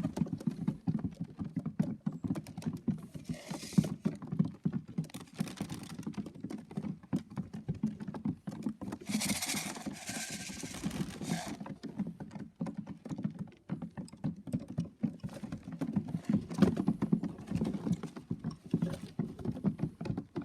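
Racing pigeons' feet pattering and clicking on the loft boards and trap as they come in, with a few bursts of wing-flapping, the longest about nine seconds in.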